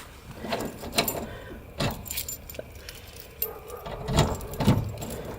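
Small hard objects clicking and rattling as something is handled and worked open, with a jangle like keys, and a couple of duller knocks about four and five seconds in.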